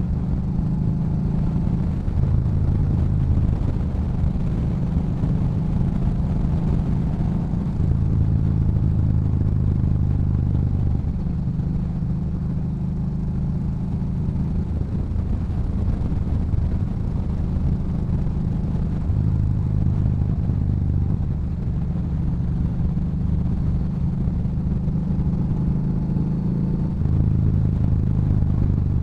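Yamaha Bolt's air-cooled V-twin running through a Cobra aftermarket exhaust while cruising, a deep steady exhaust note that rises and eases with the throttle several times.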